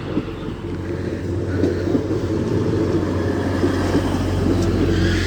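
Class 180 diesel multiple unit's diesel engines running with a deep, steady note that grows louder over the first couple of seconds.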